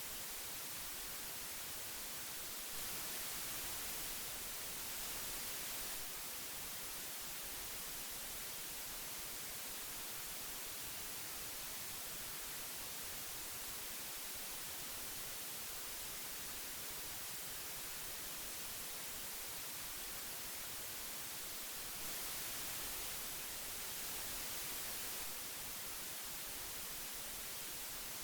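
Old analogue tape hiss: a steady, even hiss weighted toward the high frequencies. It grows slightly louder and brighter for a few seconds twice, about three seconds in and again about twenty-two seconds in.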